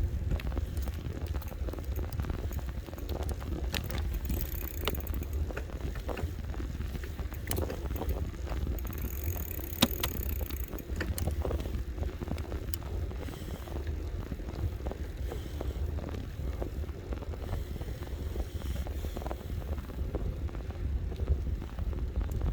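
Wind rumbling on the microphone over the running noise of an electric bike being ridden, with scattered clicks and rattles from the bike.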